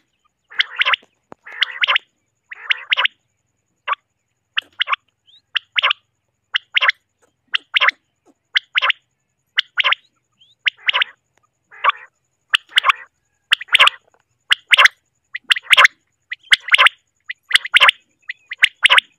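Common quail calling over and over: short, separate calls at about one a second, evenly spaced.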